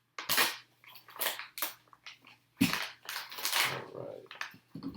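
Small plastic hardware bags and parts being handled on a workbench, crinkling and rustling in about half a dozen short, separate bouts.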